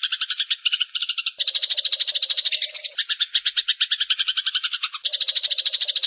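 Eurasian tree sparrows giving the fast, harsh chattering chirps of a fight. The chatter is continuous and changes abruptly in pitch and texture about a second and a half in, at three seconds and at five seconds.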